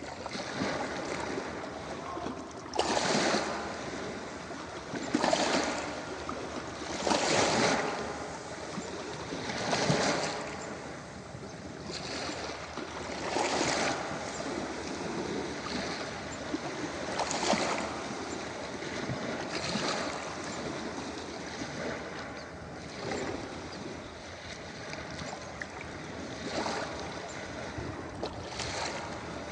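Ocean waves breaking on a beach: a steady wash of surf with a louder wave surging in every two to four seconds.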